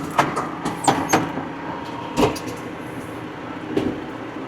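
Tractor engine running steadily, with several sharp clunks and rattles over it, the loudest a little over two seconds in.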